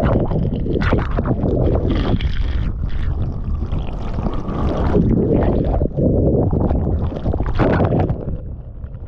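Water splashing and gurgling over a GoPro Hero 10 camera as it is washed off, loud and uneven.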